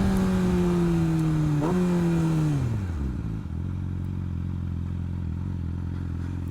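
Motorcycle engine slowing down, with a quick throttle blip on a downshift, then settling to a steady idle about three seconds in. Wind rush fades as the bike comes to a stop.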